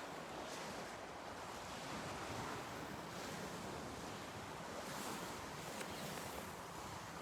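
Small waves washing steadily on a lakeshore, with wind rushing over the microphone.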